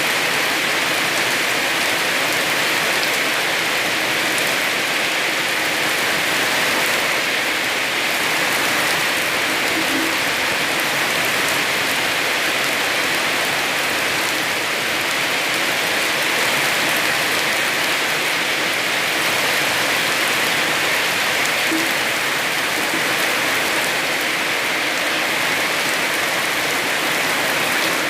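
Heavy rain falling steadily on a small house's roof and the ground around it, a dense even hiss with no letup.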